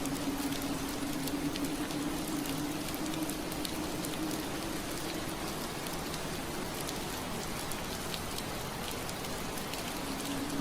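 Steady rain on window glass, a continuous hiss with many small drop taps. A low steady hum sits under it, fading out about halfway through and returning near the end.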